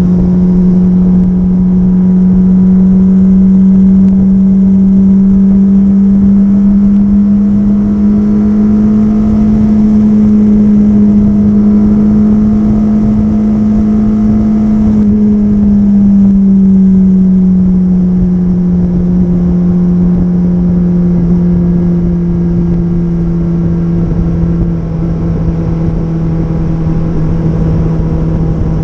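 Suzuki GSX-R750 inline-four engine running steadily at highway cruise over wind rush. The engine note creeps up a little, then drops about halfway through as the throttle eases, and holds at the lower pitch.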